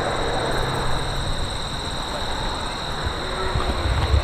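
Low, steady rumble of a landing F-15 Eagle's jet engines heard from a distance, with a few low surges near the end.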